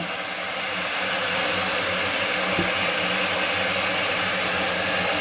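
Silvercrest electric kettle heating water, a steady rushing hiss that holds level throughout. The repaired kettle is working normally.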